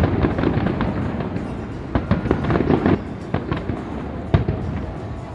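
Fireworks going off: a run of sharp bangs and crackles over a continuous rumble, with one sharp bang standing out about four seconds in.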